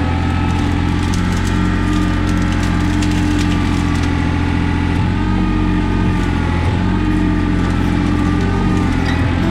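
John Deere 855 compact tractor's diesel engine running steadily at a constant speed.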